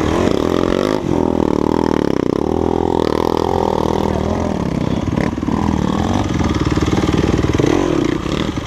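Enduro dirt bike engine revving, its pitch rising and falling again and again.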